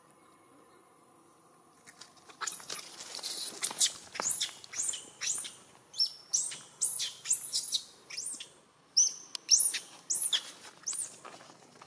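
A bird calling repeatedly in fast, high chirps, each note sliding down in pitch, about two or three a second, starting about two seconds in and stopping near the end.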